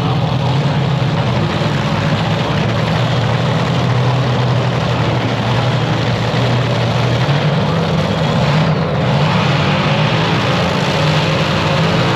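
Loud, steady engine-like rumble with a constant low hum that does not rise or fall.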